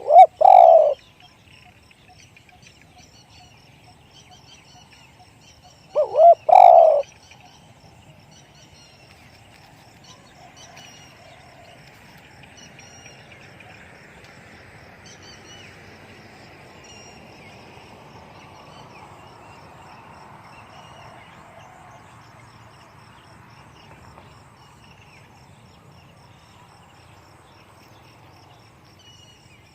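Spotted dove cooing twice, about six seconds apart; each phrase is a short 'kuk' note followed by a longer, deeper two-part coo. Faint chirping of other birds carries on between the phrases.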